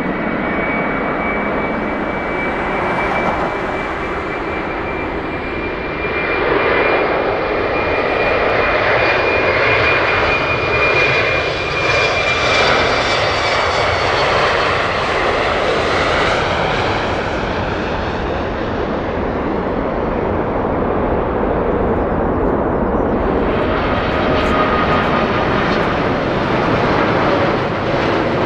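Jet airliner engines running close by: a dense rush of engine noise with a high, steady whine that slowly sinks in pitch and fades about two-thirds of the way through. The rush swells about six seconds in, and a lower whine appears near the end.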